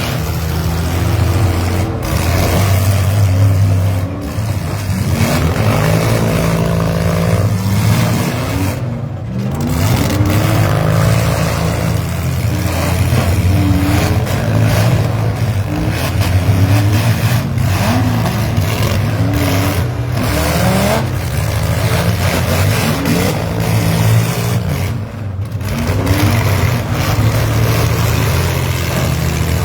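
Several demolition-derby vans, SUVs and mini trucks running at once, their engines repeatedly revving up and dropping back over a steady low drone.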